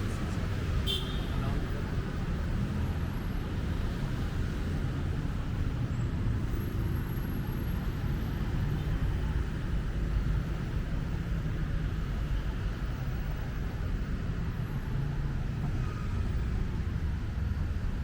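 Steady traffic noise from a busy city road: a constant rumble of passing cars and buses, with one brief click about a second in.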